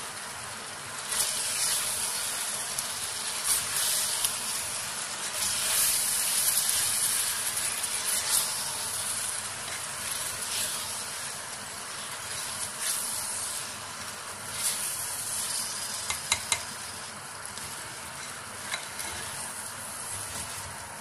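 Chicken with onions and spice masala sizzling and frying in oil in a pot while being stirred with a spatula, with a few sharp clicks of the spatula against the pot, several of them about three-quarters of the way through.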